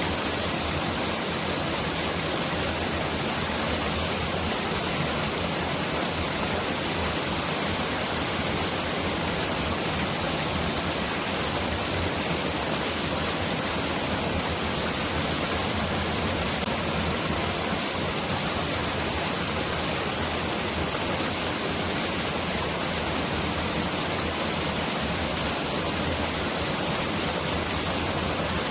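Mountain valley stream rushing in a steady, unbroken wash of water that sounds like pouring heavy rain.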